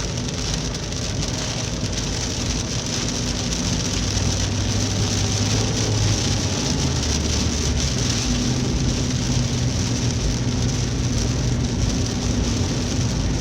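Steady rain falling on a car's roof and windshield, heard from inside the cabin, with a low hum of the car underneath.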